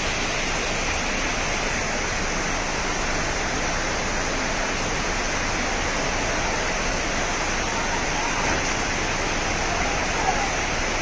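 Fast-flowing floodwater rushing steadily, an even, unbroken wash of water noise.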